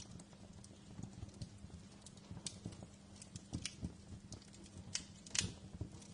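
Fireplace wood fire crackling, with irregular sharp pops and ticks over a faint steady low hum. The loudest pop comes about five and a half seconds in.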